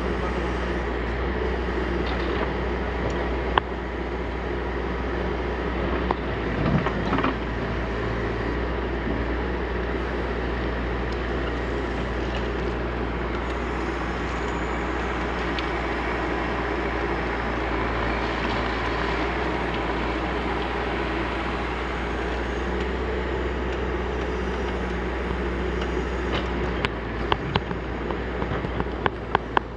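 Backhoe loader's diesel engine running steadily while digging, with a few sharp knocks and clanks, most of them in a cluster near the end.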